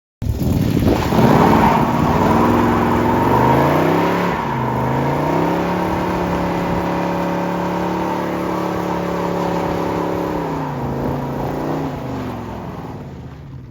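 A mud-drag vehicle's engine at full throttle: the revs climb, drop and climb again about four seconds in, hold high, then fall away near the end.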